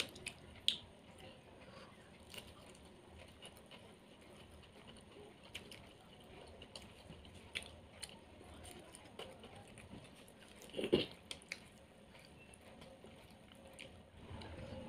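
A person chewing fried fish eaten by hand: soft, scattered clicks, with a louder cluster of them about eleven seconds in.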